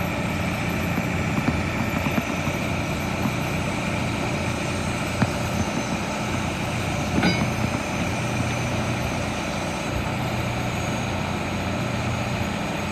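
Recycling truck's engine running steadily while the truck unloads, with a brief high chirp about seven seconds in.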